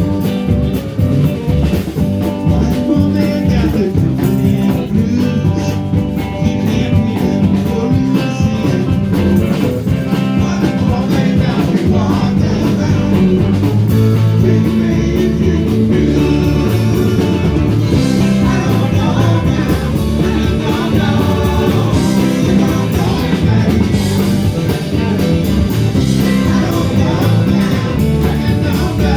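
A rock band playing a blues-rock song, with guitar, bass and drum kit and some singing.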